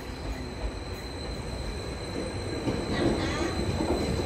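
Greater Anglia Stadler FLIRT train approaching on the far line, its running growing louder over the last second or so, with a short squeal of wheels on the rails about three seconds in. A thin, steady high tone sounds throughout.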